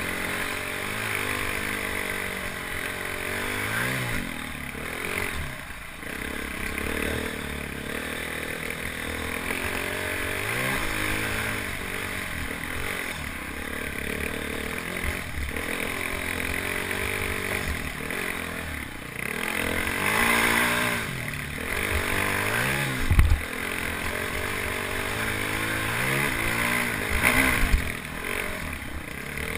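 Single-cylinder dual-sport motorcycle engine revving up and down again and again with the throttle while riding a dirt trail, with wind hiss over the helmet-mounted microphone. Two sharp knocks stand out near the end.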